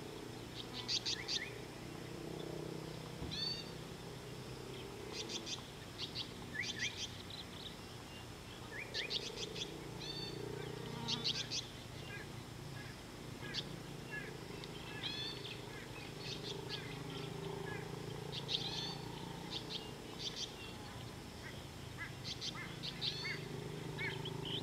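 Wild birds chirping: bursts of quick, high repeated notes and short down-slurred calls every second or so, over a low, steady background noise.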